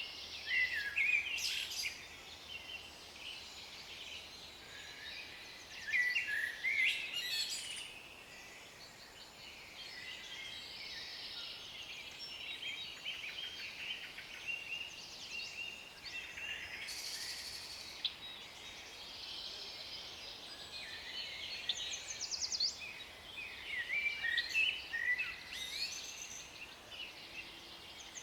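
Several songbirds chirping and trilling, in a few busy bursts over a faint steady background hiss.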